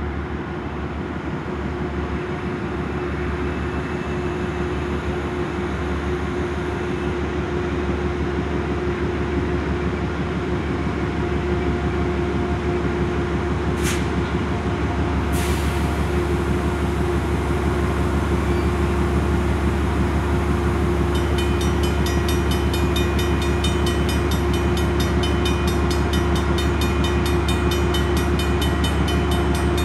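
Diesel commuter train drawing slowly closer with a steady low engine hum that grows gradually louder. About two-thirds of the way in, a grade-crossing warning bell starts ringing rapidly and keeps on.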